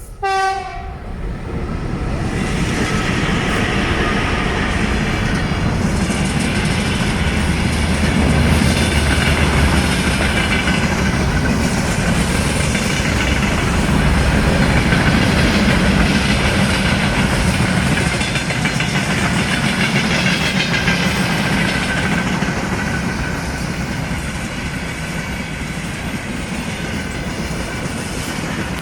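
Freight train passing: a short horn blast at the very start, then the continuous loud rumble and clatter of the wagons rolling by on the rails, easing a little near the end.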